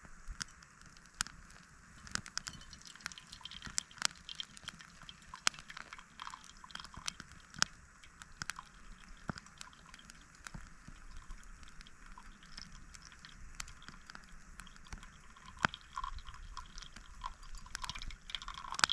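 Wood campfire crackling, with irregular sharp pops and clicks over a faint hiss.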